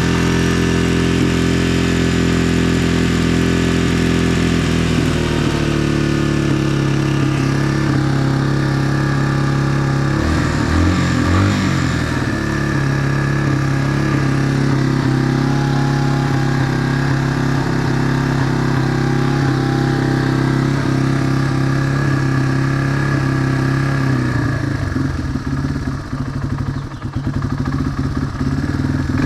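1999 Yamaha TTR225's air-cooled single-cylinder four-stroke engine running at idle while warming up after a cold start. Its pitch shifts about ten seconds in and wavers unevenly near the end.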